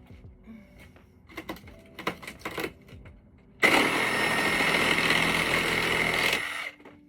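A few knocks and clacks, then a power tool runs steadily for about three seconds with a high whine and stops.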